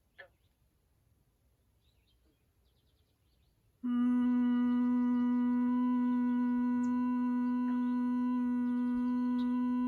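A person humming Bhramari, the humming-bee breath: a steady hum held at one pitch starts about four seconds in, after a stretch of near silence with one brief sound near the start.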